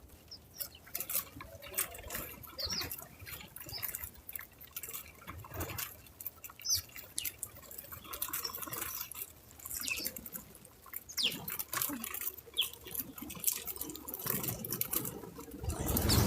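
Backyard bird-feeder ambience: irregular small clicks and taps, with a few brief high chirps from small birds and a louder rustle near the end.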